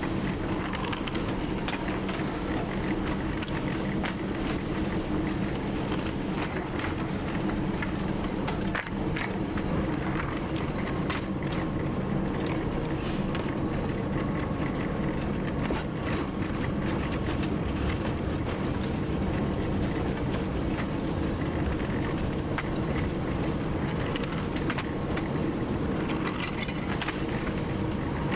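TU7 narrow-gauge diesel locomotive's V12 engine running steadily while the train is under way, with scattered clicks from the wheels on the rails.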